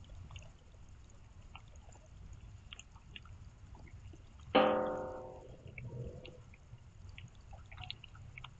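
Rain dripping in scattered faint ticks. About halfway through, a single loud ringing note starts suddenly and dies away over about a second, its brighter part fading first.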